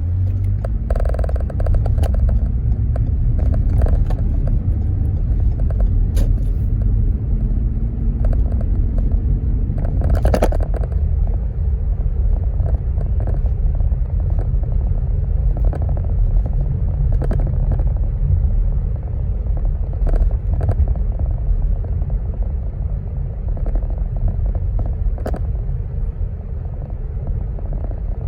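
A car driving, with a steady low rumble of road and engine noise and a few scattered clicks and knocks.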